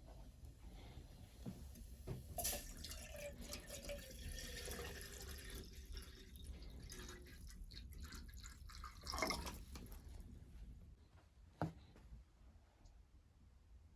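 Water trickling and dripping, with a couple of sharp knocks near the end.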